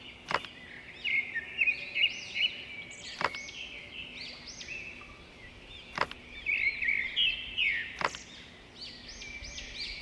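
Small birds chirping continuously, with four sharp clicks spaced two to three seconds apart.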